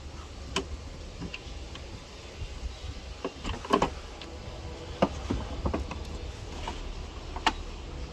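Irregular sharp clicks and knocks, as of hard parts being handled, loudest in a quick cluster about four seconds in, over a low steady hum.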